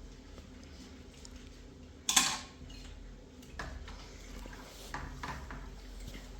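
Kitchenware being handled: one loud clattering knock about two seconds in, then a few lighter knocks.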